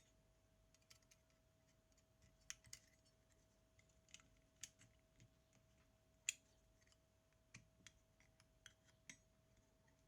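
Faint, irregular clicks and light taps of small tools and metal parts during repair work on a Zenit TTL film camera, about a dozen over several seconds, over a faint steady tone.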